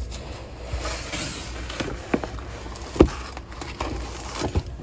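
Rustling and handling of diamond painting kit packaging, with several light knocks as things are set down; the sharpest knock comes about three seconds in.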